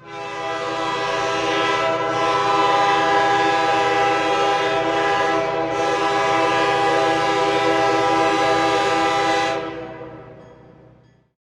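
Locomotive air horn sounding one long blast, a steady chord of several notes, fading out near the end.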